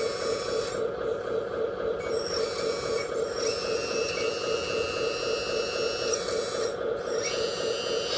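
Steady electric hum of the model truck's small hydraulic pump motor running, with fainter high whines that drop out briefly twice.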